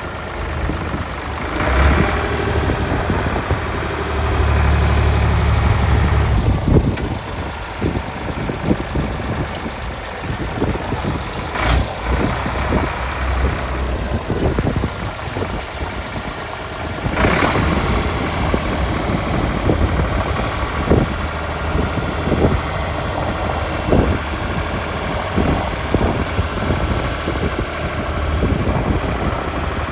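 Ford 4630 tractor's three-cylinder diesel engine running steadily, getting louder twice for a few seconds.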